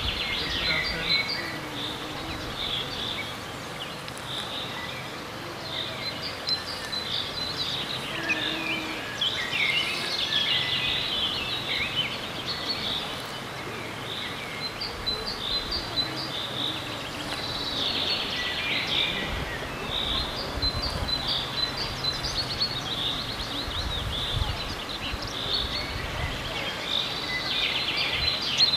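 Birds singing and chirping in short phrases over a steady background of outdoor noise, with occasional low rumbling.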